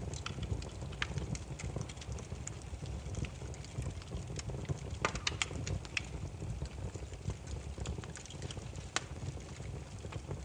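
Burning firewood crackling and popping over a low steady rumble of flame, with a cluster of louder pops about five seconds in and one sharp pop near nine seconds.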